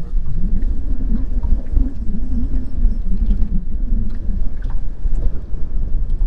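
Wind buffeting the microphone, a heavy low rumble, with a wavering low hum through the first two-thirds.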